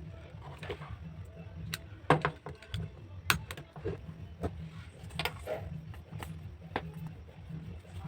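Irregular clicks and taps of craft materials being handled while building a cardboard model, over a steady low hum.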